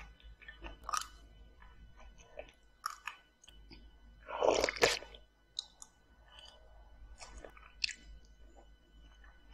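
Close-miked chewing of fried egg and onion salad, with scattered sharp clicks, then a loud drink from a glass about four seconds in, lasting under a second.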